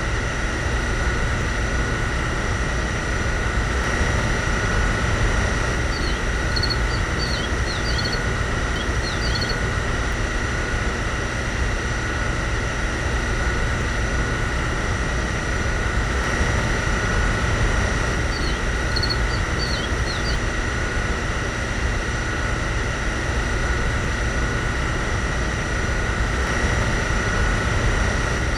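A small motor running steadily with a constant whine. Short bird chirps come through twice, about six seconds in and again near twenty seconds.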